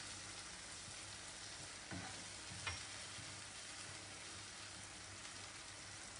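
Spiced onion, tomato and garlic masala sizzling faintly in oil in a pan, a steady soft hiss, with a couple of light knocks from stirring about two seconds in.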